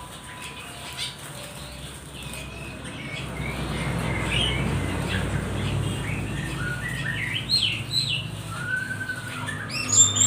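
Small birds chirping and calling in short, quick notes that come thicker in the second half, including a short arching whistle and a sharp, loud chirp near the end, over a low rumble.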